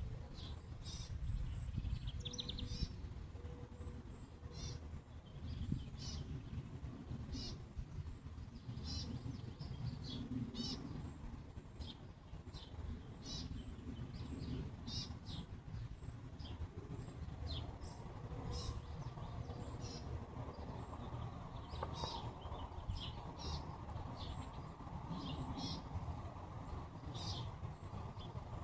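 Small birds chirping, short high calls repeating every second or so, over a steady low rumble.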